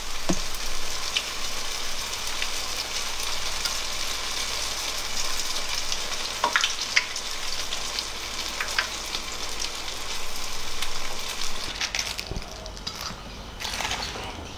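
Batter-coated peony petals sizzling as they deep-fry in hot peony seed oil, with a few sharp clicks of chopsticks turning them in the pan. The sizzle weakens near the end.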